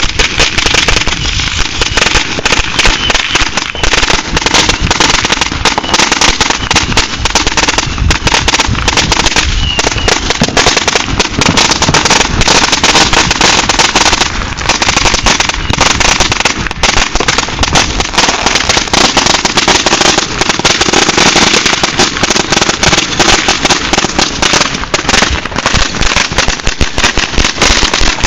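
A long string of firecrackers going off, a dense, unbroken run of rapid loud bangs and crackles.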